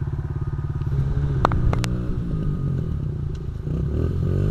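Honda CRF70 dirt bike's small single-cylinder four-stroke engine puttering evenly, then throttled unevenly from about a second in with a couple of sharp clicks, the revs climbing near the end as the learning rider gives it more gas.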